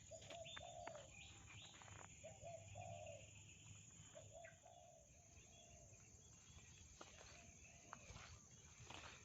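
Faint dove cooing: three short phrases of low coos in the first five seconds, with a few light clicks and rustles.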